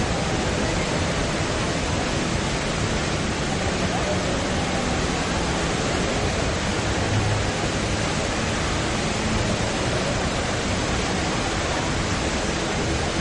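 Rain Vortex indoor waterfall: a steady, loud rush of falling water.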